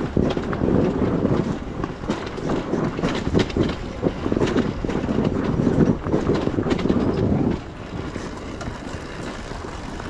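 Enduro motorcycle engine running under throttle on a rough trail, with wind buffeting the microphone and frequent knocks from the bike over the ground. The engine noise eases off about three-quarters of the way through.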